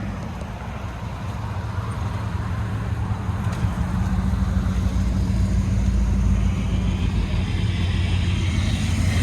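A car engine running with a steady low hum that grows gradually louder.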